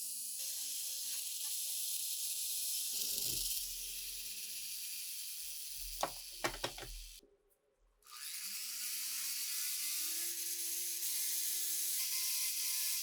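A small power tool runs with a steady high hiss, with a few sharp clicks just after the middle. It cuts out for about a second, then spins back up with a rising whine and runs on steadily.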